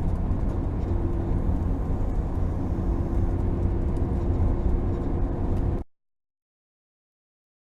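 Steady road and engine noise inside a moving RV's cab, with a faint steady hum, cutting off abruptly to dead silence about six seconds in.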